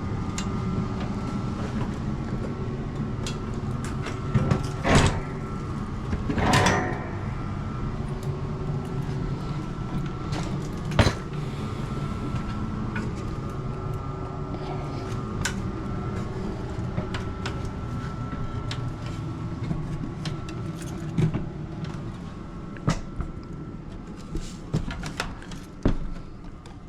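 Knocks, clicks and rattles from an HVAC unit and its panels or tools being handled, over a steady mechanical hum with a faint high whine; the hum thins out near the end.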